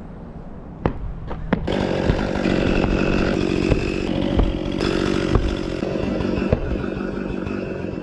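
A few sharp knocks, then a chainsaw running loud and steady at high revs from about one and a half seconds in, easing off slightly near the end.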